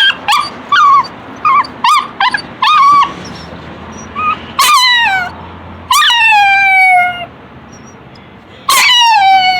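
A dog whining and yipping to be fed. A quick run of about six short, high yips comes first, then three longer whines that each slide down in pitch.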